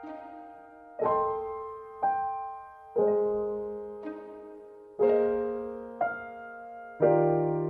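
Background piano music: slow, soft chords struck about once a second, each ringing and fading before the next.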